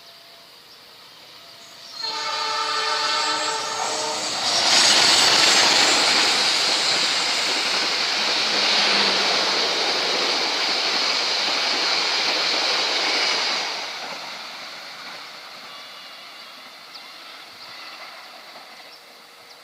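Diesel-hauled passenger train sounding one horn blast of about two seconds, then passing close at speed with the noise of the locomotive and carriages, which fades as it moves away.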